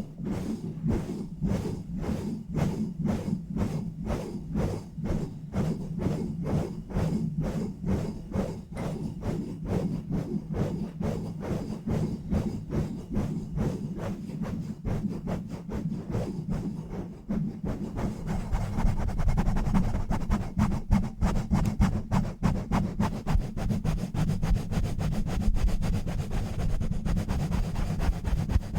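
Fingers rubbing and scratching directly on a bare microphone with no foam cover, in fast, rhythmic strokes about two to three a second. About 17 seconds in, the rubbing gets quicker, denser and louder.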